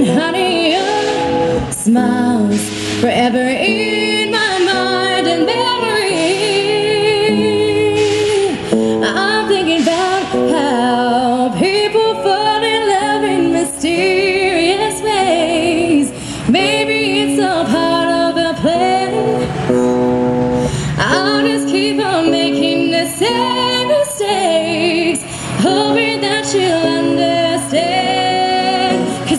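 A woman singing a slow ballad over her own strummed acoustic guitar, amplified through a PA, her held notes wavering with vibrato.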